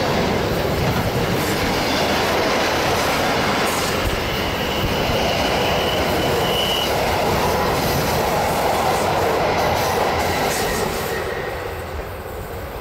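Train running along the Semmering mountain railway: a steady rumble of wheels on the rails, with a faint high wheel squeal for a few seconds around the middle. The noise eases off near the end.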